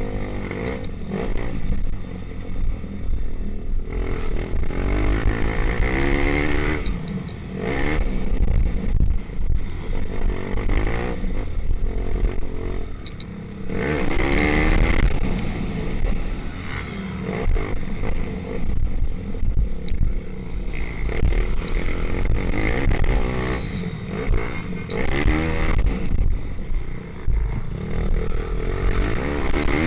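Pit bikes' small single-cylinder four-stroke engines revving hard and shifting as they race past, the engine note rising and falling again and again as bikes come and go, over a steady low rumble.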